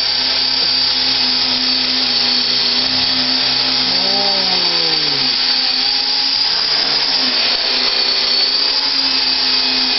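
Fixed-pitch RC helicopter in flight, its motor and rotor giving a steady high-pitched whine. About four seconds in the pitch drops for a second or so and then settles back, as the rotor speed is cut back and brought up again to change lift.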